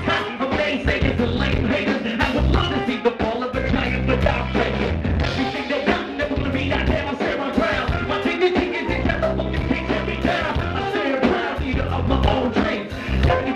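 Live band playing a song: a steady drum beat over a bass line, with guitar filling the middle.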